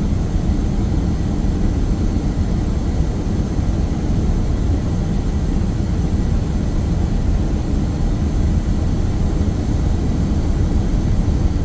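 Steady low rumble of an Airbus A330 flight deck on short final approach, with a few faint steady high tones over it.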